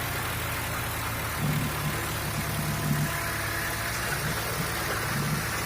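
Diesel tractor engines running steadily, with the low engine note swelling louder for about a second and a half, starting about a second and a half in, and again briefly near the end.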